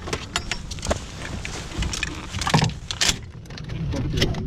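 Irregular small clicks and metallic rattling of hunting gear being handled, over a low rumble of movement.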